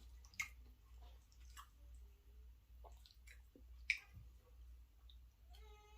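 Close-miked chewing of a mouthful of chicken, bacon and shrimp alfredo pasta: soft wet mouth clicks and squishes, with two sharper clicks about half a second in and near four seconds in, over a low steady hum.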